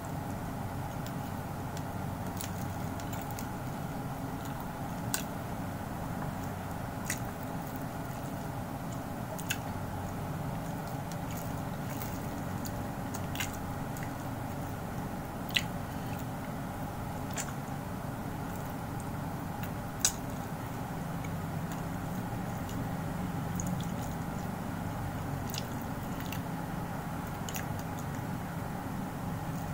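Close-up chewing and mouth sounds of a person eating a meal by hand, with short sharp clicks now and then. A steady hum runs underneath.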